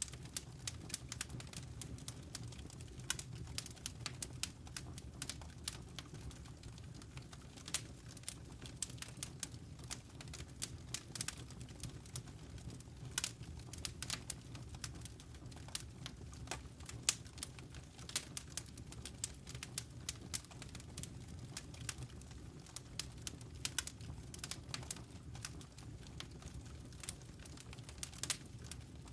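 Wood fire crackling in a fireplace: many small, irregular pops and snaps, a few of them sharper, over a steady low rumble of burning.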